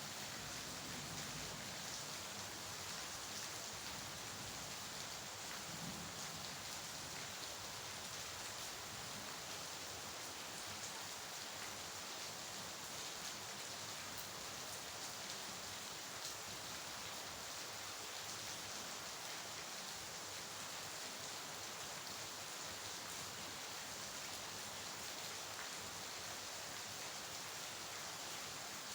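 Steady rain falling, a dense even hiss with fine patter of drops on a surface and no change in strength.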